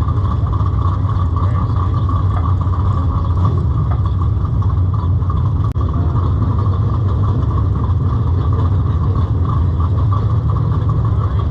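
A vehicle engine running steadily with a low rumble and no revving.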